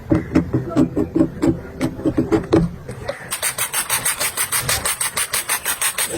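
Farrier's rasp filing a horse's hoof in repeated scraping strokes, speeding up to about four or five strokes a second in the second half.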